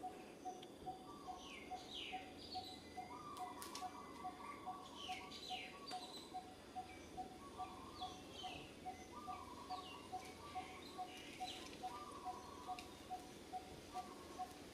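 Birds calling: short falling chirps come every second or so over a short, even note repeated about two and a half times a second.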